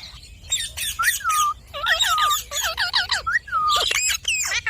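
Indian ringneck parakeet calling: three bursts of quick, high chirps and squawks that swoop sharply down and up in pitch.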